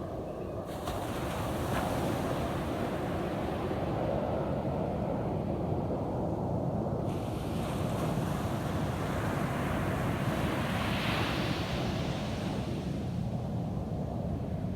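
Ocean surf washing onto a sandy beach: a continuous rush of breaking waves, with one wave's hiss swelling up around ten to twelve seconds in.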